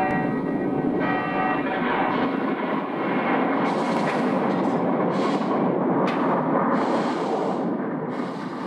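Loud live-show sound effects and music: a bell ringing over a dense, rumbling wash of booms, with four short bursts of hiss in the second half.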